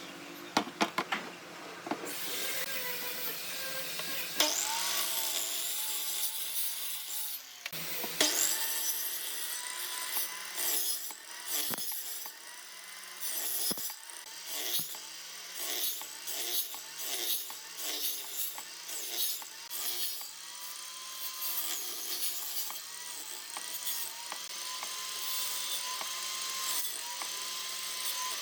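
A power tool working wood, with a few sharp knocks in the first two seconds. In the second half the cutting noise rises and falls about once a second.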